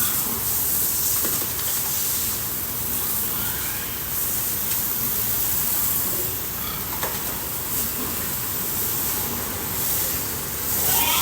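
Water jet spraying steadily, a continuous hiss as the pigs are washed down.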